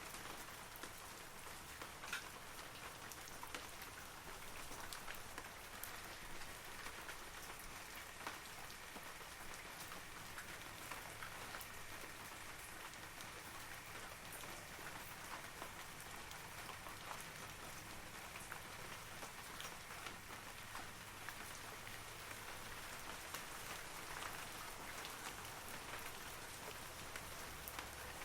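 Steady rain falling on forest trees, a soft even patter with many separate droplets ticking on leaves.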